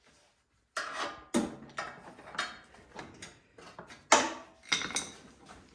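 Irregular clicks and knocks from hands and tools working on a snowblower's carburetor as its primer tube is pulled off: about a dozen sharp taps, starting after a brief pause.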